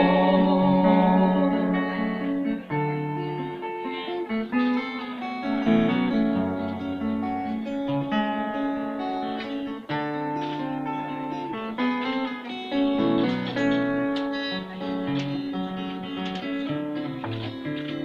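Acoustic guitar playing an instrumental passage of the song, plucked notes over a moving bass line.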